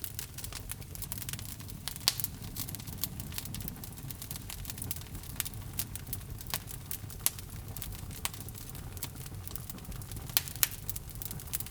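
Logs burning in a fireplace, crackling: frequent sharp pops and snaps over a low steady rumble, with a few louder pops about two seconds in and again near the end.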